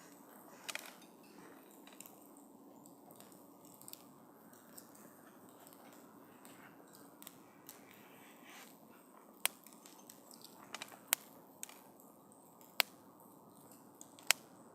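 Wood campfire crackling: a soft steady hiss with scattered small ticks, and a few sharper pops from the burning wood in the second half.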